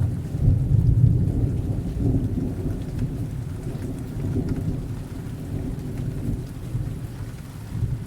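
Rolling thunder rumbling low and deep, loudest in the first second or two and slowly dying away, over steady rain.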